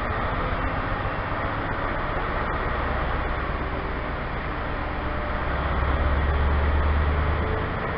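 Diesel engines of a GWR High Speed Train's Class 43 power car running as the train pulls out, a steady rumble with a low hum that grows louder about six seconds in.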